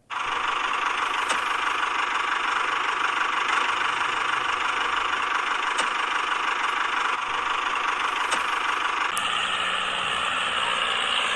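A small motor running steadily with a constant whirring hum. It starts abruptly and changes tone about nine seconds in.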